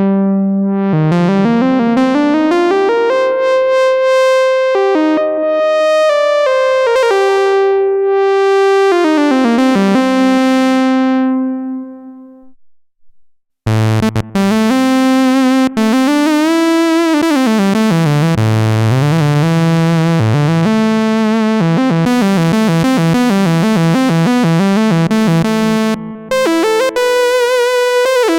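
Arturia MatrixBrute analog synthesizer playing a single-note lead line, its notes gliding up and down into one another. The notes fade out about twelve seconds in, and after a second of silence a brighter lead patch starts, again with sliding pitch and a sweeping tone.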